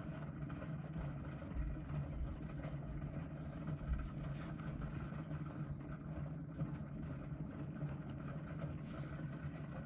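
A steady low hum with faint, soft scraping noises now and then.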